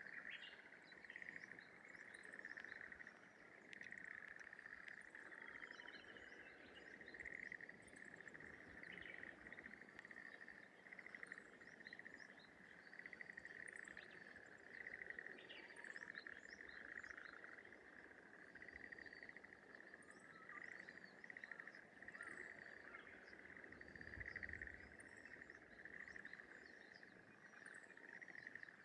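Faint, steady chorus of frogs calling from rice paddies, a dense continuous rapid pulsing, with scattered short high bird chirps over it. A brief low rumble comes in near the end.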